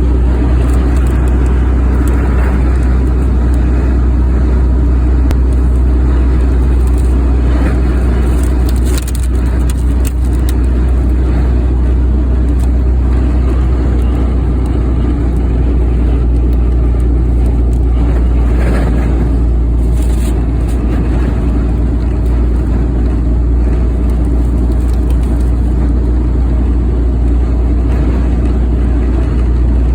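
A vehicle driving in strong wind: a loud, steady low rumble of road and wind noise, with a few brief bursts about nine and twenty seconds in.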